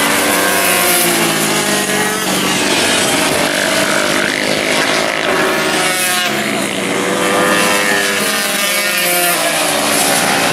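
Several racing motorcycles at high revs, their engine notes overlapping and rising and falling in pitch.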